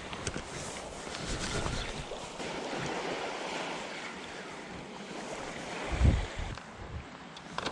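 Waves washing on a beach, with wind on the microphone and a strong gust buffeting it about six seconds in.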